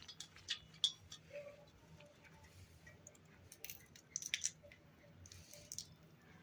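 Irregular light clicks and taps, a cluster of them a little past the middle: a parrot's beak and claws pecking at a mobile phone.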